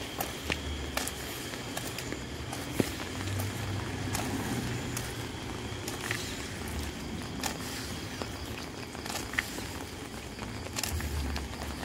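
Steady rain falling, with scattered sharp taps of drops and a few dull low thuds.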